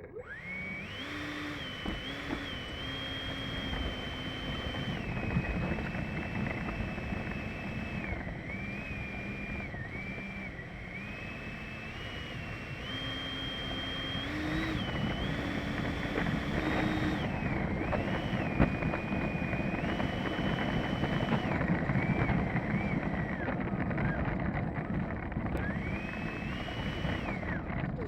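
Electric ducted fan of an E-flite F-16 Thunderbird 70mm RC jet whining, its pitch stepping up and down as the throttle is moved, over a steady rush of air. The whine drops away near the end.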